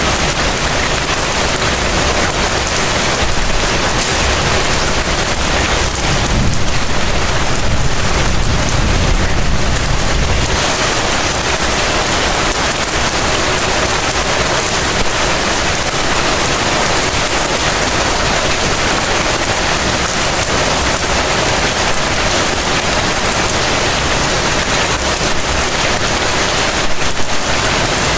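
Heavy rain falling in a steady, dense hiss. A low rumble swells between about six and ten seconds in.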